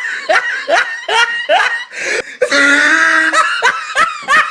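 Laughter from a sound-effect clip: a quick run of short rising 'ha' bursts, several a second, with a short break about halfway and a longer held stretch after it.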